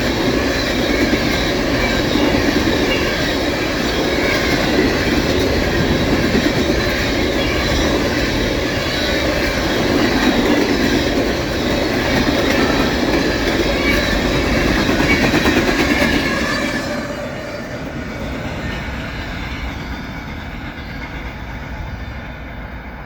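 Freight train cars rolling past at close range in a steady, loud rattle of wheels on rail. About 17 seconds in the end of the train goes by: the sound drops suddenly, then fades as it rolls away.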